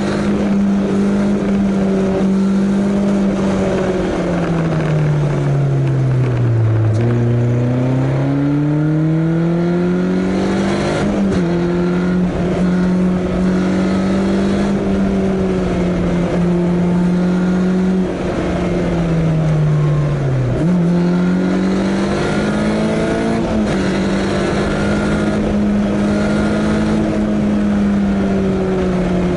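Caterham Seven's engine heard onboard while driving, holding a steady note. About five seconds in the pitch falls as the car eases off, then climbs back with a small step up near eleven seconds; near twenty seconds it drops sharply and picks up again as the car pulls away.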